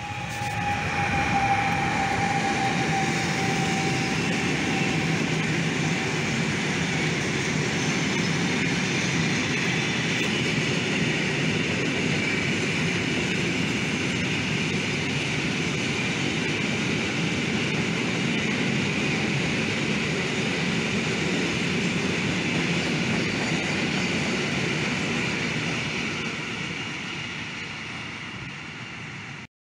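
A PKP Cargo ET26 (Newag Dragon 2) electric freight locomotive passes close by, with a high whine that fades out over the first few seconds. A long train of loaded self-discharging hopper wagons follows with a steady noise of wheels rolling on the rails, which fades out near the end.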